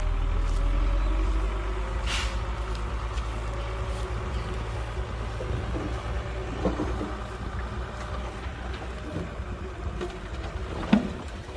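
Heavy diesel engine of earthmoving equipment running with a deep, steady rumble, loudest in the first second or so. There is a short hiss about two seconds in and a sharp knock near the end.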